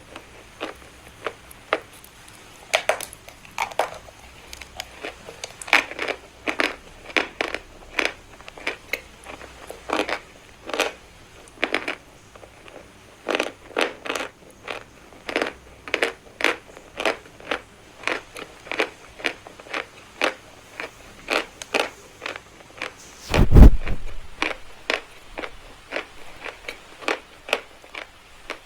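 Pieces of chalk being bitten and crunched close to the microphone: sharp crunches, roughly two a second. One loud, low thump comes a few seconds before the end.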